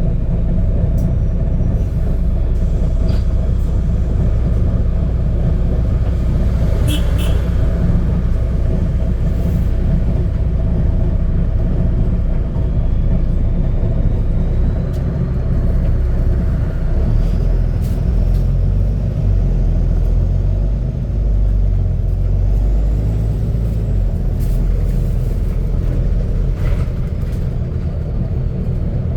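Double-decker bus engine running under way with a burst exhaust, giving a loud, deep drone that shifts in pitch about halfway through. A few short rattles and clicks sound over it.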